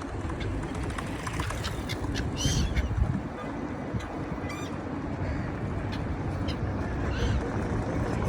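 Gulls calling: several short, harsh cries a second or two apart, one of them a quick run of repeated notes about halfway through, over a steady low background rumble.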